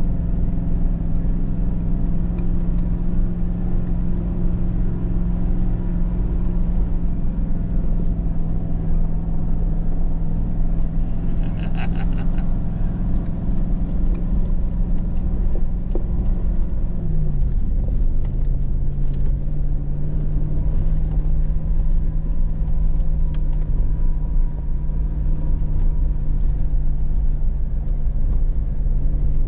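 Hummer H2's V8 engine running steadily at low trail speed, heard from inside the cab as a steady drone whose pitch drops a step about seventeen seconds in. A brief burst of rapid clicking or rattling comes a little before the midpoint.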